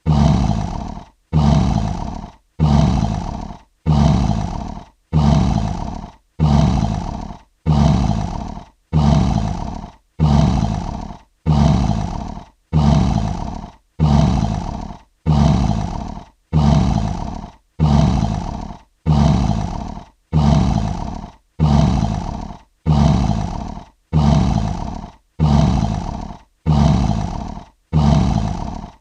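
Lion roar sound effect played as an evenly repeating loop, about one roar every second and a half. Each roar starts loud and fades away before a brief gap.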